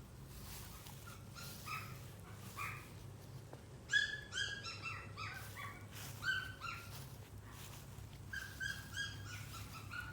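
A puppy whining and yipping in short high-pitched cries, coming in bursts: a few about a second or two in, a quick run near the middle and another near the end.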